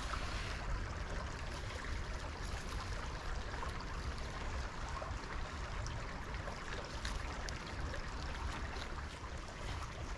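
Small woodland stream running steadily: a constant, even rush of flowing water.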